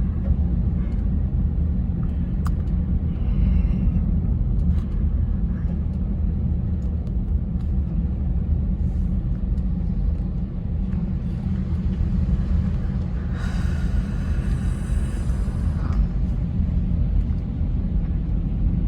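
Steady low rumble of a car driving in heavy rain, heard from inside the cabin, with a few faint ticks. A brief higher sound comes in about two-thirds of the way through.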